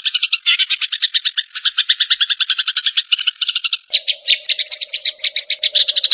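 Sparrows chattering in rapid, unbroken chirps, about ten a second: the agitated calls of sparrows fighting. About four seconds in, a lower steady tone joins beneath the chatter.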